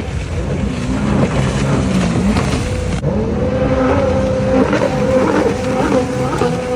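Motor engines running loud, their pitch rising and falling as they rev, with a sudden change about three seconds in.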